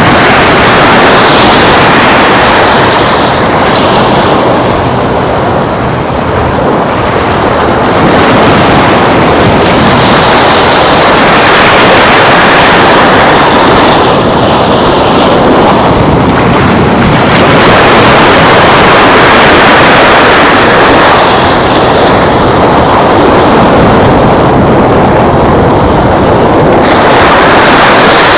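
Surf washing onto a sandy beach, swelling and fading every few seconds, under loud wind buffeting the microphone.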